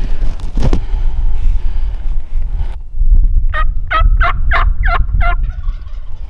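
Turkey calling: a loud run of about six quick notes over roughly two seconds, over a steady low wind rumble on the microphone.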